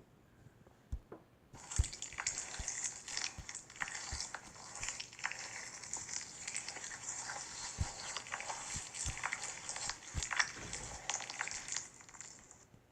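Slime being squished and worked by hand: a dense crackling full of small pops and clicks. It starts about one and a half seconds in and stops shortly before the end.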